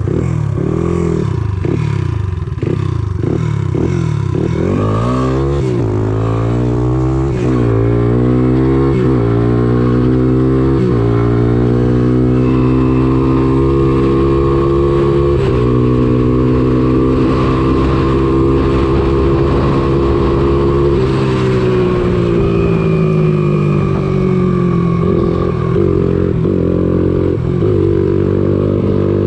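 Honda ATC200X three-wheeler's single-cylinder four-stroke engine running through a CRF230 exhaust. It is blipped up and down several times, then climbs steadily in pitch and holds there, and drops back to a lower steady note about two thirds of the way through.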